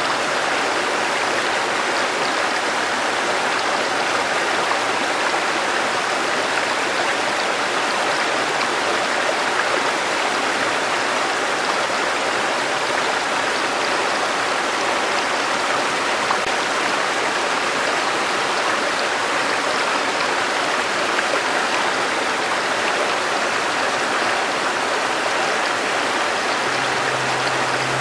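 River water flowing steadily over stones, an even rushing babble with no change in level.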